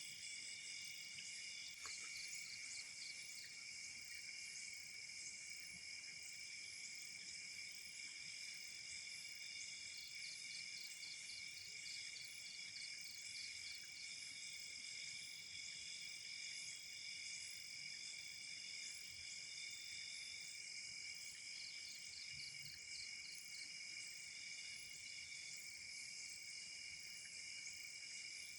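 A chorus of night insects, chiefly crickets, trilling steadily at several high pitches. A faster pulsing trill joins in and drops out a few times.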